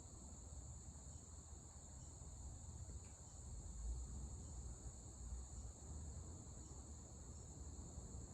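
Emerson ceiling fans coasting down after being switched off, giving a faint low air rush, under a steady high-pitched trill.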